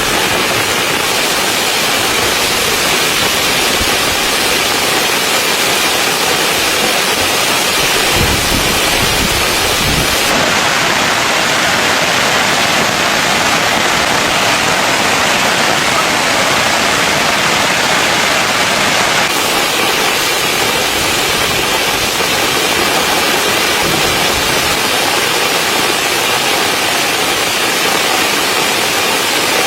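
Steady rain pattering on a tent's fabric, heard from inside the tent as a loud, even hiss. Its tone shifts slightly about ten seconds in and again near twenty seconds.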